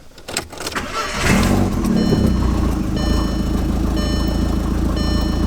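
Turbocharged car engine starting about a second in and settling into a steady idle, with no unusual noise from the turbo. A short electronic chime, typical of a car's dashboard warning, beeps about once a second over the idle.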